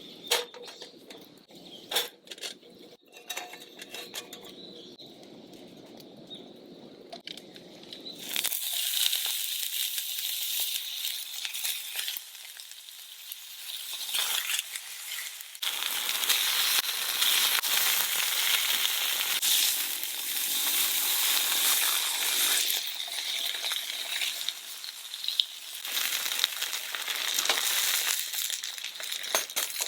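A few clicks and knocks of cooking gear being handled, then, from about eight seconds in, food sizzling steadily in a hot pan, with a brief lull partway through.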